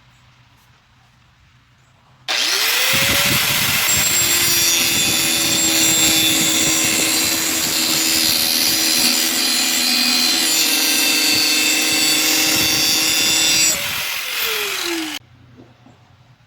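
Angle grinder switched on about two seconds in, its motor whine rising to speed, then grinding the rusty steel edge of an axe with a loud harsh hiss for about ten seconds. Near the end it is switched off and the whine falls as the disc spins down.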